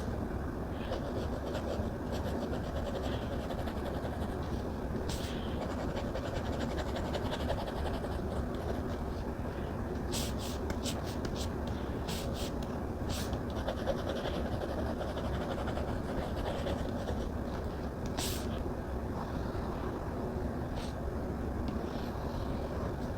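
Stylus tapping and scratching on a tablet's glass screen while drawing: scattered sharp taps, a quick run of them about ten seconds in, over a steady background hiss.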